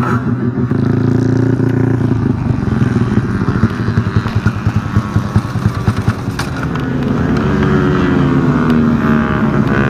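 Motorcycle engine running hard: a steady drone at first, then a choppy stretch of uneven pulses in the middle, then the revs climb steadily over the last few seconds.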